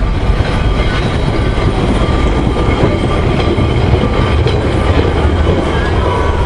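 Blackpool tram running along its rails: a steady, loud rumble with wheel-on-rail noise.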